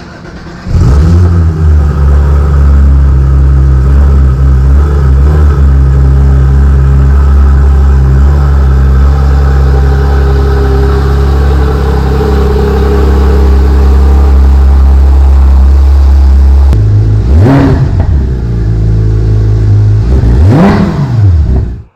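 Porsche 911 GT3 flat-six firing up about a second in and running at a loud, steady fast idle of a cold start, then settling to a lower idle near the end and being blipped twice, each rev climbing and falling quickly.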